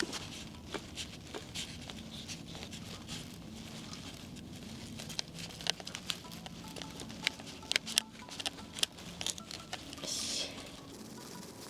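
Irregular light clicks and taps of cooking utensils and containers being handled during food preparation, over soft background music. There is a short rustling hiss about ten seconds in.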